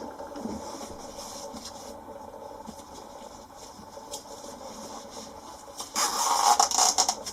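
Quiet room noise with a few faint taps, then about six seconds in a loud second or so of scraping and rustling, as of objects being handled or rummaged through.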